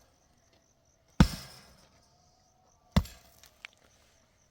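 Sharp chopping blows repeated at an even pace, a little under two seconds apart, each with a brief ringing tail.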